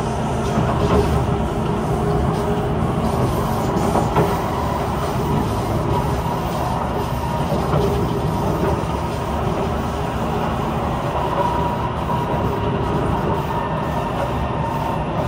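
Kawasaki C151 MRT train running between stations, heard from inside the car: a steady rumble of wheels on rail, with a faint steady tone above it.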